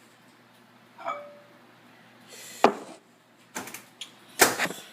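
Microwave door being opened and a mug taken out and set down on the counter: a few separate knocks and clicks, the loudest near the end.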